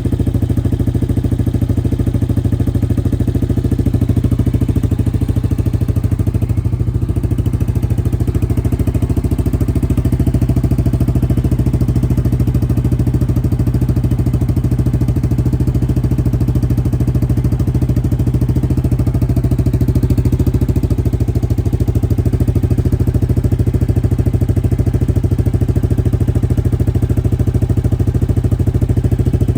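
2019 Yamaha Kodiak 700's single-cylinder four-stroke engine idling steadily through its exhaust, with no revving.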